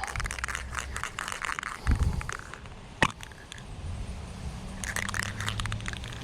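Wind rumbling on the microphone, with scattered crackles and handling clicks and one sharp click about three seconds in.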